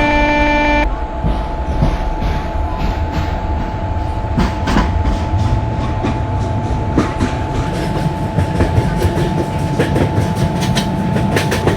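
A long train passing at high speed, its wheels rumbling and clacking over the rail joints in a quick run of clicks. A horn note ends about a second in.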